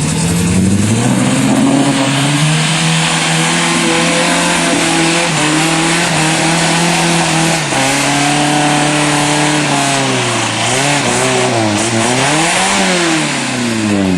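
A four-wheel-drive pickup's engine revving hard under load as the truck struggles to climb out of a water-filled canal. The revs climb in the first couple of seconds, hold high for several seconds, then fall and rise again several times near the end.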